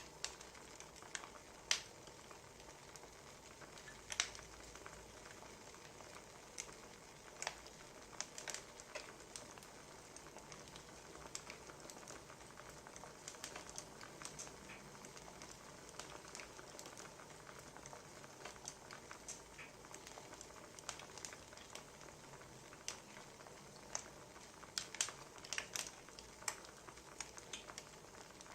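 Wood fire crackling, with irregular sharp pops and snaps over a soft steady hiss, the pops coming thicker near the end.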